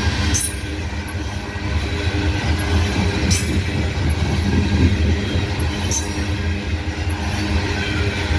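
Coal train's rotary-dump hopper cars rolling past: a steady heavy rumble of steel wheels on rail, with a sharp high click about every three seconds.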